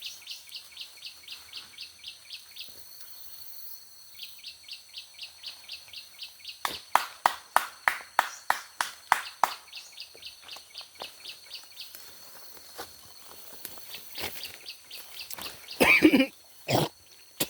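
A bird call: a short high chirp repeated about four times a second, over a steady high insect drone in forest. Partway through comes a run of loud sharp clicks, and near the end two loud bursts.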